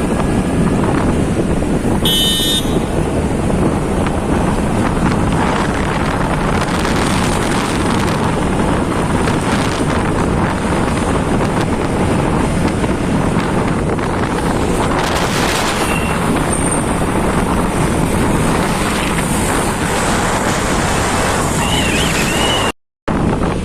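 Steady wind rush and road noise from riding on a moving motorcycle, with a short vehicle horn toot about two seconds in. The sound cuts out for a moment near the end.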